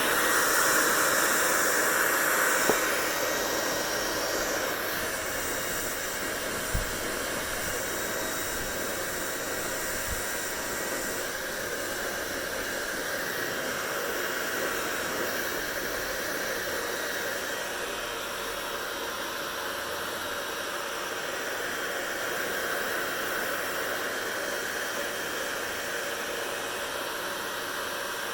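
Hair dryer blowing with a steady rushing hiss, a little louder for the first few seconds and then holding level. A brief low knock about seven seconds in.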